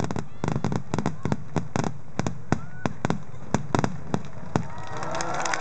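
Aerial fireworks shells bursting in a rapid volley of sharp bangs, several a second, thinning out about four and a half seconds in. Crowd voices come up near the end.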